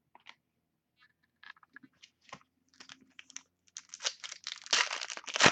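Crinkling and tearing of a trading-card pack wrapper being ripped open by hand, scattered crackles at first that grow denser and louder toward the end.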